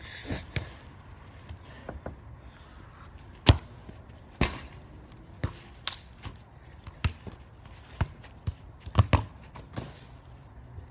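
Soccer ball thudding again and again, about a dozen irregular bounces and kicks, the loudest about three and a half seconds in.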